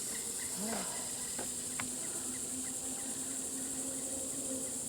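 Steady high-pitched drone of an insect chorus in the woods, with a faint low hum underneath.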